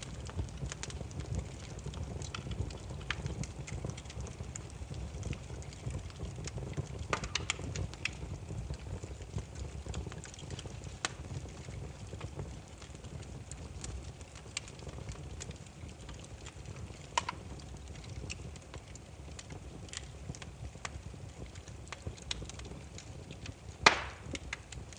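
Burning firewood crackling: irregular small snaps and pops over a steady low rumble of the flames, with one loud sharp pop near the end.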